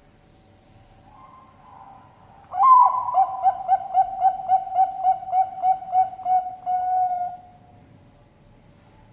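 Zebra dove (perkutut bangkok) singing its cooing song. A soft opening call leads into a loud run of about a dozen quick pulsing coos, about three a second, which ends in a longer held note.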